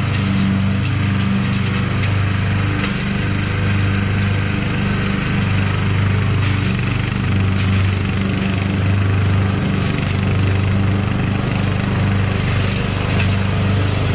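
Lawn mower engine running steadily at working speed while mowing ground strewn with small sticks and debris.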